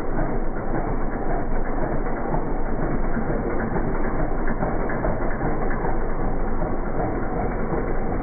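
Diesel Bullet motorcycle engine running with a steady, rapid mechanical clatter.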